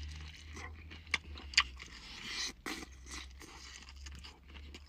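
Close-miked crunching and chewing of an extra-crispy fried chicken wing, with a few sharp crunches in the first three seconds.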